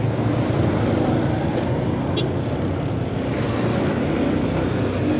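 Motorbike running steadily along a city street, with engine and road noise and surrounding traffic. There is a short sharp click about two seconds in.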